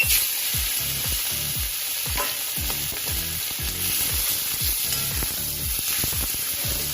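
Lightly spiced chicken pieces frying in a pan, a steady sizzle.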